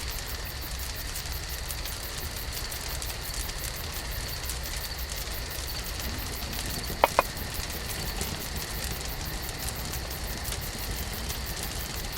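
Wood campfire burning with a steady hiss and light crackle. A little past halfway come two sharp clicks in quick succession.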